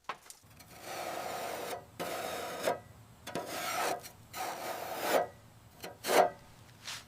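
Hand-worked abrasive strokes, rasping back and forth about five times with short pauses between them, like scraping or sanding by hand.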